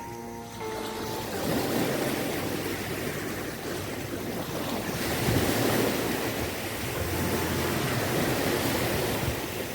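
Sea waves breaking on the beach: a steady wash of surf that swells and eases, with some wind.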